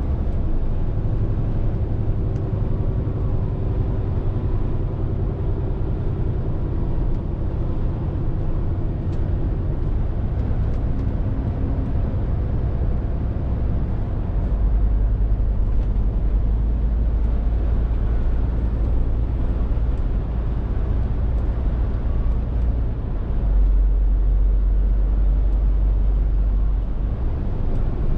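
Scania R450 truck driving: its 13-litre six-cylinder diesel running under way with tyre and road noise. The deep engine rumble grows louder about halfway through and again later.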